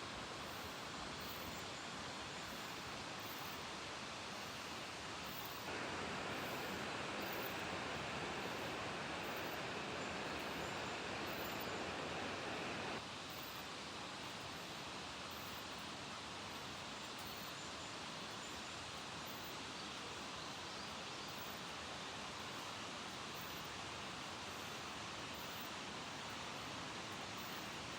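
River water rushing and flowing in a steady, even hiss. It gets abruptly louder about six seconds in and drops back about thirteen seconds in.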